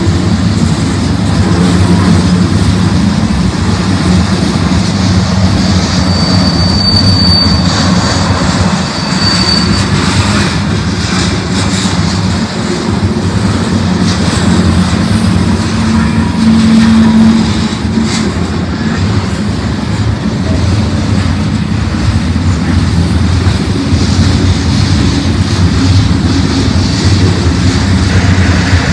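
Diesel freight locomotives running under load with a steady, loud low engine drone. Two brief high squeals come about seven and nine seconds in.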